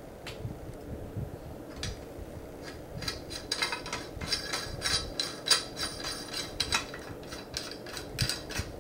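Small metal bicycle headset parts clinking and ticking as the adjuster cap is fitted and tightened. A few scattered clicks come first, then from about three seconds in a busy run of sharp metallic clinks and ticks.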